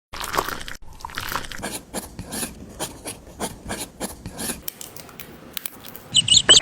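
Repeated short scraping and rubbing strokes, irregular and gritty, of small-scale miniature construction work. A brief high chirping comes in near the end.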